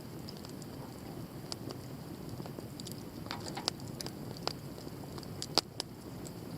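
Campfire burning with a steady low rush of flame and scattered sharp crackles and pops, the loudest pop near the end.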